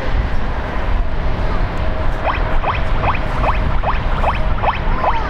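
Low, steady rumble of an Airbus A321neo's jet engines, with a faint steady hum. Midway a bird gives a quick series of about seven short rising chirps.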